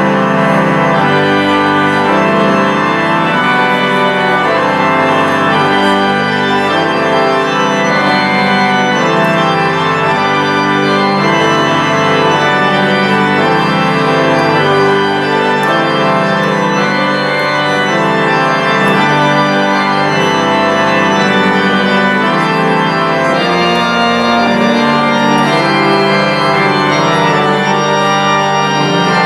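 Church organ playing full sustained chords, with many notes held at once and the harmony changing every second or so, steady and loud.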